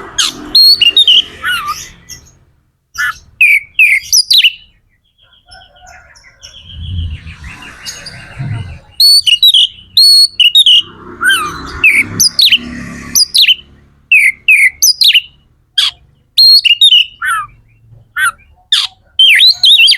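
Oriental magpie-robin (kacer) in full song: loud, varied whistled notes and quick slurred phrases in bouts, with short pauses between them. A low rumble is heard twice in the middle.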